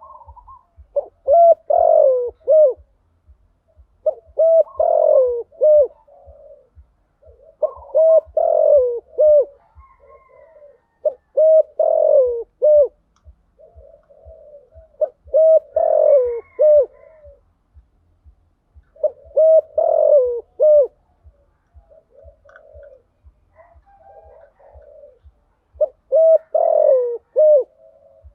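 Spotted dove cooing: a phrase of a few rising-and-falling coos repeated about every three to four seconds, seven times, with softer low coos in between. It is the calling used as a lure to draw in wild spotted doves.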